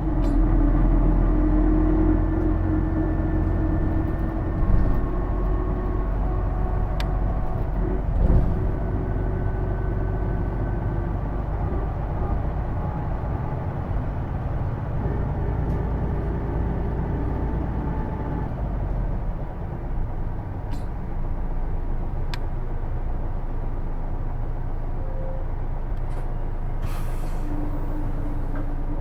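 Cabin running sound of a Hino Blue Ribbon II city bus: a low diesel drone with a whining drivetrain tone over it, the transmission whine that sounds almost like an automatic. The whine fades about two-thirds of the way through, leaving a steadier drone, and a brief hiss of air comes near the end.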